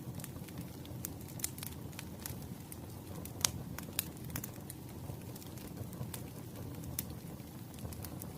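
Wood fire burning: a steady low rumble of flames with scattered sharp pops and crackles of firewood, the loudest snap about three and a half seconds in.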